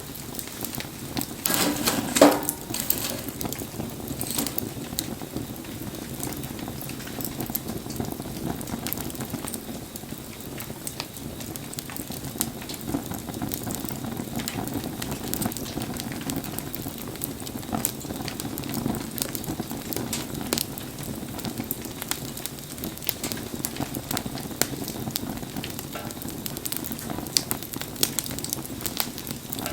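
Wood fire crackling and hissing in the rain, with scattered pops throughout and a louder flurry of crackles about two seconds in.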